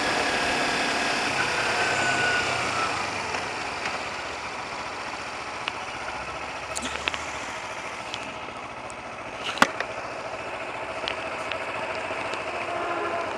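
Motorcycle riding noise in traffic: engine and wind rush, easing off a few seconds in and building again near the end, with one sharp click about ten seconds in.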